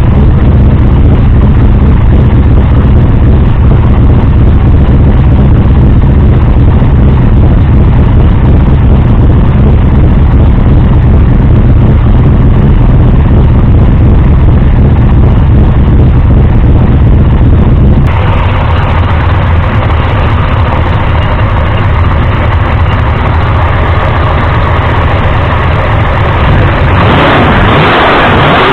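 Big-block Ford V8 of 503 cubic inches with a big solid-lifter cam, running loud and steady after a cold start, exhausting through mufflers and open headers. About two-thirds of the way through, the sound abruptly turns brighter and less bassy, and it brightens again near the end.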